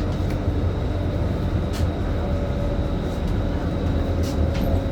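Scania K310IB city bus's rear-mounted engine running under a steady low rumble, heard from inside the bus, with two sharp clicks or knocks from the bus body.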